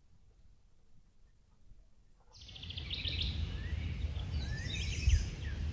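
Near silence at first; then, about two seconds in, the sound changes abruptly to open-air birdsong, several small birds chirping and trilling over a low, fluctuating rumble.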